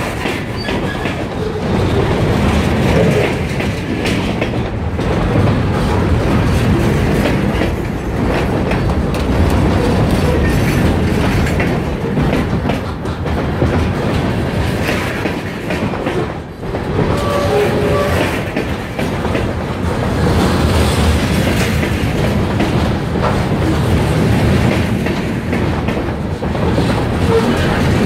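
Freight train cars, covered hoppers, rolling past close by: a loud, steady rumble with constant wheel clatter over the rails, briefly easing once about halfway through.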